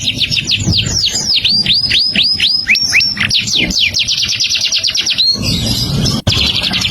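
A songbird singing in a fast, unbroken string of sharp downward-slurred whistled notes, several a second. About five seconds in the song gives way to a short harsh, raspy sound and a click, then the quick notes start again.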